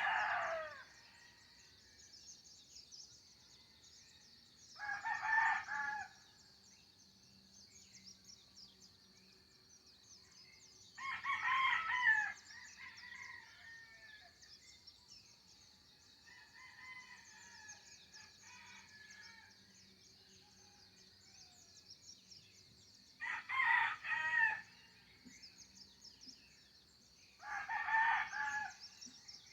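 Roosters crowing: the end of one crow at the start, then four more full crows spaced several seconds apart. Small birds chirp faintly between the crows, over a steady high buzz.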